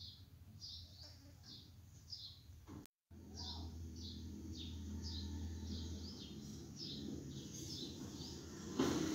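A small bird chirping over and over, short high chirps that fall in pitch, about two or three a second, under a low hum. The sound cuts out for a moment about three seconds in, and a louder noise sets in near the end.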